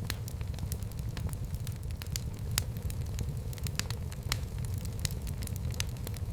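Fire burning in a fireplace, crackling with many sharp, irregular pops over a steady low rumble.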